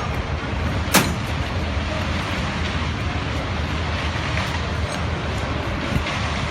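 Truck-mounted concrete mixer pump running steadily, engine and pumping machinery together, with one sharp knock about a second in.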